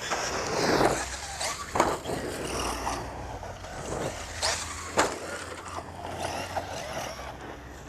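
Thunder Tiger MT4 G3 1/8-scale electric RC monster truck driving over rough ground: tyre and drivetrain noise with a surge in the first second and a few sharp knocks, the loudest about five seconds in.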